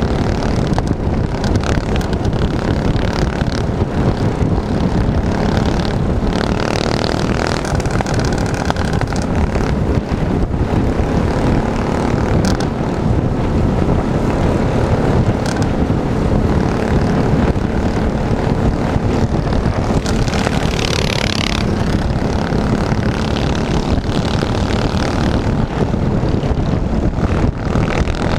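Small minibike engine running, under heavy low-pitched noise.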